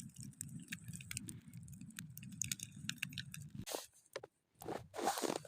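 Small wood campfire crackling: scattered faint pops and snaps over a low steady rumble, which cuts off about two-thirds of the way through.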